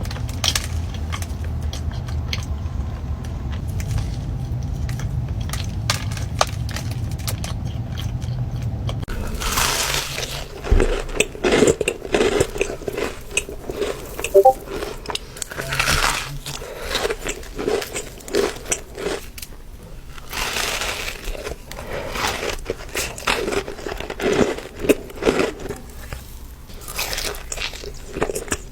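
A steady low rumble for the first nine seconds or so. Then close-up eating sounds: repeated bites and chewing of a Crumbl cookie, in short, uneven crunchy bursts.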